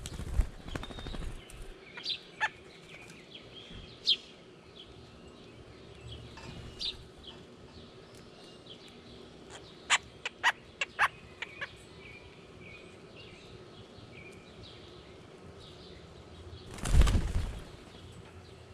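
Small birds' wings flapping right by the ground feeder as birds land and fly off, briefly at the start and loudest near the end. Short high bird chirps are scattered through it, with a quick run of sharp taps in the middle.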